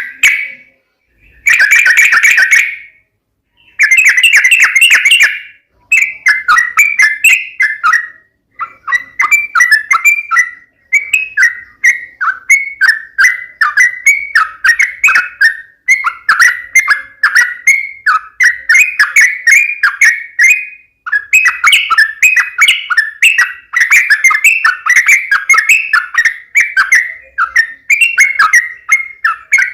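Yellow-vented bulbul (trucukan) singing: a few short bursts of song at first, then from about six seconds in a fast, unbroken string of chattering, bubbly phrases.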